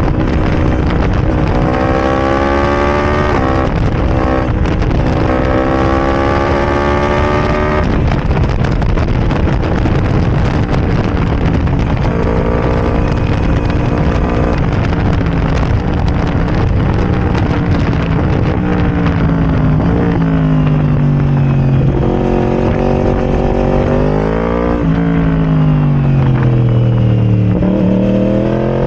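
Yamaha R1 crossplane inline-four with a decatted Arrow Racing exhaust, accelerating through the gears: the engine note climbs, drops sharply at each upshift, and climbs again. Later the revs fall and rise in repeated swoops, as when slowing and blipping down through the gears.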